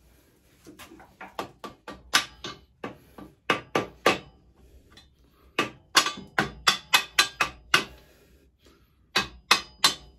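Hammer tapping a greased bolt through a pit bike's swinging-arm pivot: scattered single taps, then quick runs of sharp blows, about four or five a second, the louder runs after the middle and again near the end.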